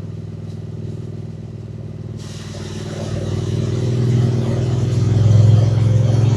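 Triumph Speed Twin 900's parallel-twin engine running under way, heard from the bike, growing louder from about three seconds in as it pulls harder. A rush of wind noise comes in suddenly about two seconds in.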